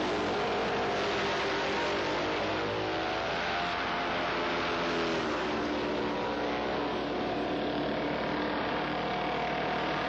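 Several vintage racing motorcycle engines running together, their notes rising and falling in pitch as they are revved.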